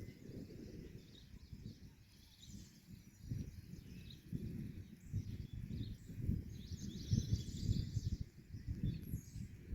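Small birds chirping and twittering, with a thick patch of chirps about three-quarters of the way through. Underneath runs a low rumble that comes and goes in gusts.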